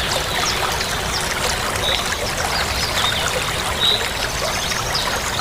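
Running water trickling and splashing steadily, like a small stream, with short high notes repeating over it every second or so.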